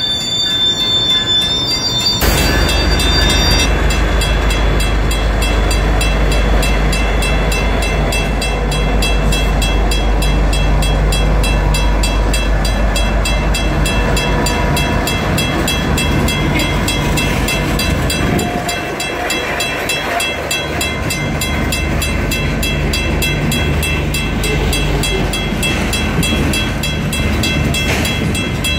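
Freight train passing close by at low speed: BNSF diesel-electric locomotives go by with a deep engine rumble for about the first half, then the freight cars roll past with rail and wheel noise. A high wheel squeal sounds near the start.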